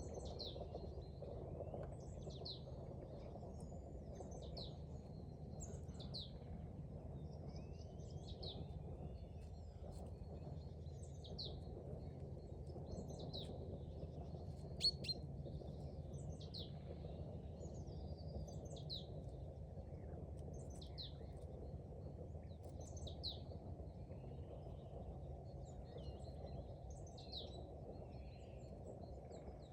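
Songbirds calling in a spring forest: short, high notes that sweep downward, repeated every second or two, one sharper note standing out about halfway through. A steady low background noise runs beneath them.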